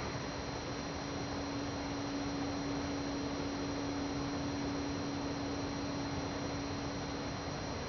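A steady low hum over constant background hiss, fading out near the end; no knocking is heard.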